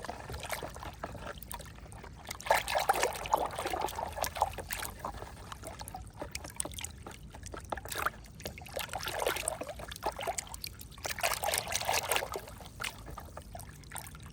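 Water trickling and splashing over a small plastic toy motorcycle as it is washed by hand. The water comes in uneven spells, with small clicks and knocks from handling the toy.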